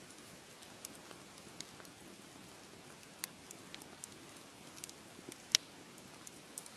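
Fire in a fireplace crackling: scattered sharp pops and snaps over a soft, steady hiss, with the loudest pop about five and a half seconds in.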